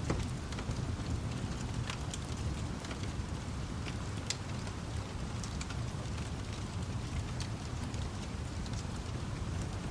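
Wood fire crackling with scattered sharp pops, over a steady hiss of rain and a low continuous rumble.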